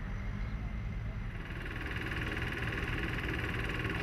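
An engine running steadily with a low rumble; about a second in, a rapid high-pitched mechanical rattle joins it and cuts off suddenly at the end.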